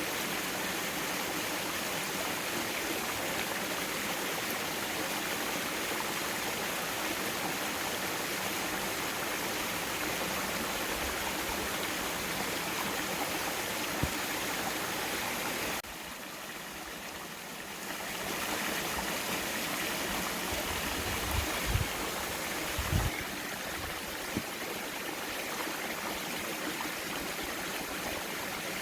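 Mountain valley stream flowing, a steady rush of water over rocks. The level dips briefly a little past the middle, and a few soft low thumps come near the end.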